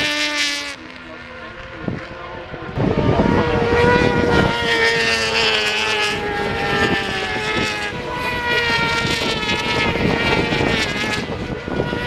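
Racing superbike engines at high revs going past, their pitch dropping slightly as they pass. A quieter gap comes about a second in, then a louder, sustained engine note from about three seconds on.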